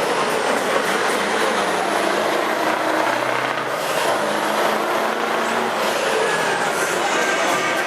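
Scania torpedo truck's diesel engine running loud and steady under load, with a faint high whistle rising and falling above it.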